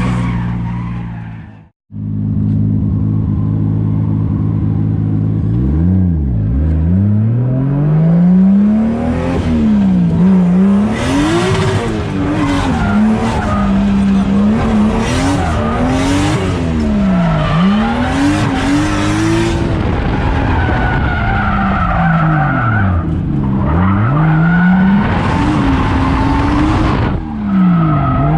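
Drift car's engine revving up and down over and over as the car drifts, with the hiss of tyre squeal over it. The sound cuts out briefly about two seconds in, then returns.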